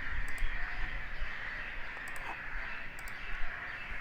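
Computer mouse clicking a few times, in quick press-and-release pairs, over a steady background hiss and low hum.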